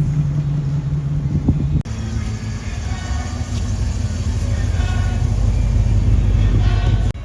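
Car engine running with a deep, steady low rumble. It is cut off abruptly about two seconds in, replaced by a heavier rumble that grows louder toward the end, with voices faintly behind it.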